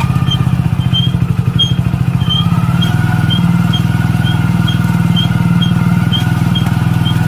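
Hero Splendor Plus motorcycle's small single-cylinder four-stroke engine running, with a short high squeak repeating about twice a second. The squeak comes from brake shoes or pads that are sticking because rust formed after water got into the brakes.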